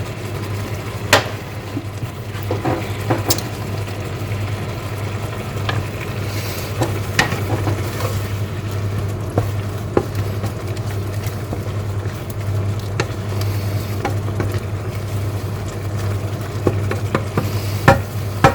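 Seasoned chicken sizzling and bubbling in a pan as its spiced cooking water boils down, with a utensil clicking and scraping against the pan now and then and a steady low hum underneath.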